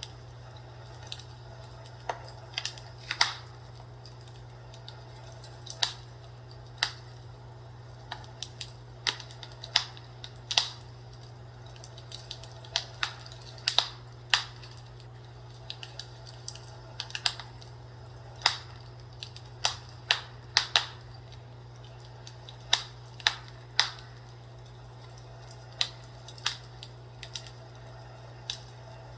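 Fireplace crackling: irregular sharp pops and snaps of burning wood at uneven intervals, over a steady low hum.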